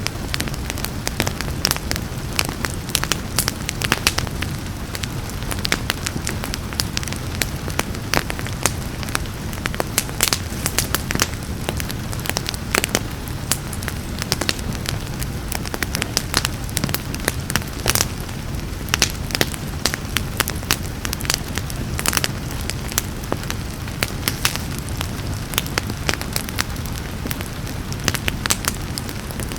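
Wood fire in a fireplace crackling, with many sharp irregular snaps over a steady low rumble, and rain in the background.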